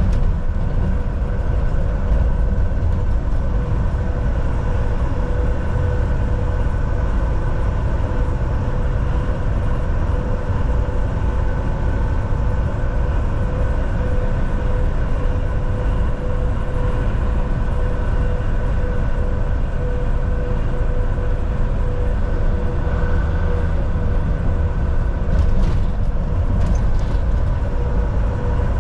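Volvo VNL 760 semi truck cruising at highway speed: steady engine and tyre rumble with a constant drivetrain whine.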